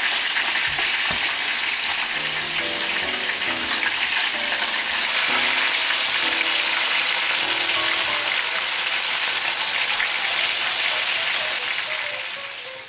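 Chicken tenders sizzling as they fry in hot oil in a skillet, a steady loud crackling hiss that fades out near the end.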